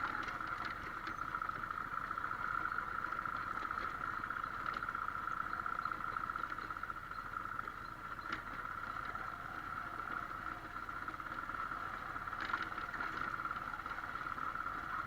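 Motorcycle riding on a forest road: steady engine, wind and road noise, with a high hum held throughout.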